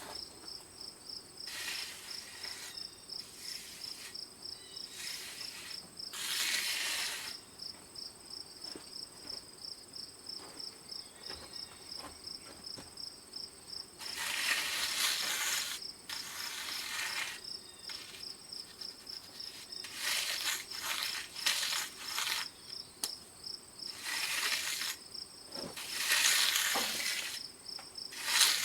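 Cricket chirping in a fast, even pulse throughout, broken by repeated rough noisy strokes about a second long.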